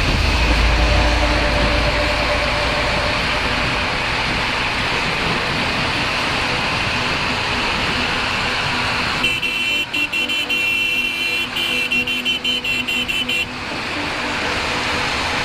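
Motorcycle riding in traffic, with steady engine, road and wind noise on a helmet microphone. About nine seconds in, a high-pitched horn sounds in a run of short, broken toots for about four seconds.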